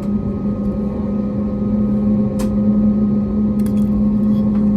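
Airbus A321neo's Pratt & Whitney geared turbofan engines heard from inside the cabin: a steady low hum over a rumble, slowly growing louder. A sharp click comes about two and a half seconds in, with a few faint clicks near the end.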